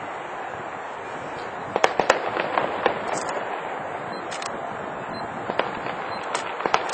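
Aerial fireworks display going off: a continuous crackle with sharp bangs and cracks, bunched about two seconds in and again near the end.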